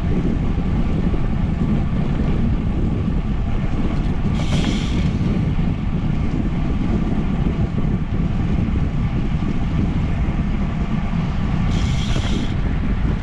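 Steady wind buffeting the microphone and rolling noise while riding a bicycle at speed. Two brief higher-pitched sounds stand out, about four and a half seconds in and again near the end.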